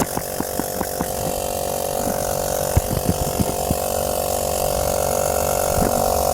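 Small 12-volt piston air compressor running steadily on an RC battery while inflating a car tire, with a constant hum. Irregular light clicks and taps come in the first second and again about three seconds in.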